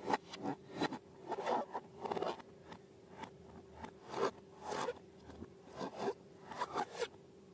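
Slime being worked by hand, in irregular short crackly, squelching strokes a few times a second, over a faint steady hum.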